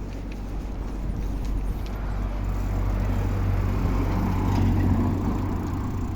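Road traffic noise with a steady low rumble, swelling about halfway through as a vehicle passes, then easing off.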